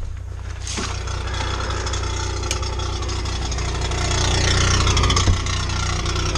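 10 hp Yamaha snowblower engine running steadily, with a rushing noise rising over it from about a second in and growing louder after about four seconds.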